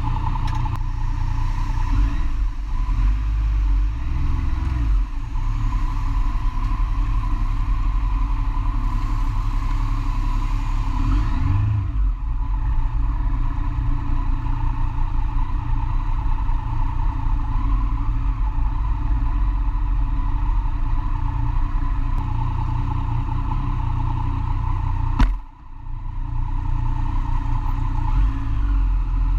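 Motorcycle under way, heard from an onboard camera: a steady engine note under a heavy low rumble, with light changes in revs. About 25 seconds in there is a click and the sound briefly drops.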